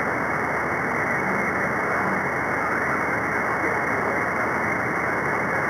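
Radio static from an SDRplay RSP1B software-defined receiver tuned to the 11-metre CB free band, with no strong signal on the frequency: a steady hiss narrowed by the receiver's voice filter. A faint low tone and traces of weak, buried voices come and go.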